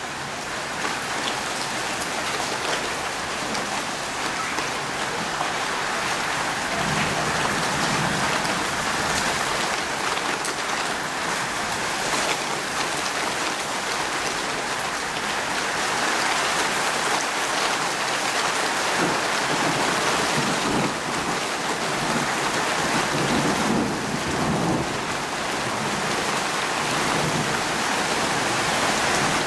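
Steady heavy rain with a hissing patter throughout, and a few low rumbles of thunder coming and going, the longest about two-thirds of the way through.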